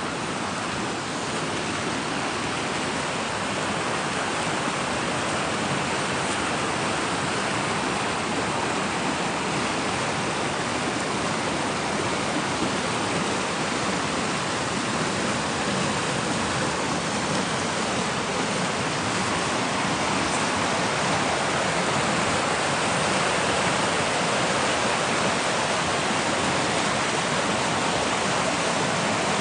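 A fast-flowing river rushing steadily, a dense, even roar of water.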